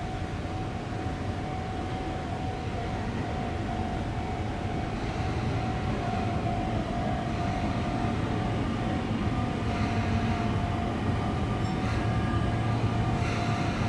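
Sotetsu Line electric train approaching on the rails, its running noise growing steadily louder, with a steady high tone throughout and further higher tones joining near the end.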